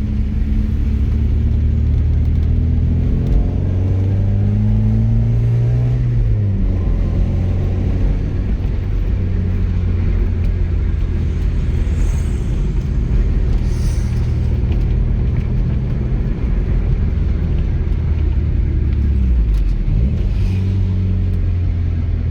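1988 Porsche 944's 2.5-litre fuel-injected four-cylinder engine running, its pitch climbing for a few seconds and dropping back about six seconds in, then holding steady, with a short dip and pick-up near the end.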